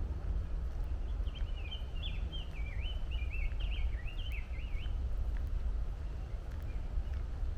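A songbird sings one rapid, warbling phrase of quick up-and-down notes lasting about three and a half seconds, starting about a second in. Under it runs a steady low rumble of distant highway traffic.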